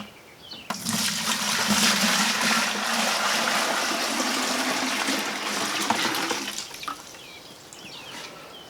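Water pouring into a bucket for about six seconds, a steady rush with a faint low tone that rises a little as it fills, then tailing off and stopping.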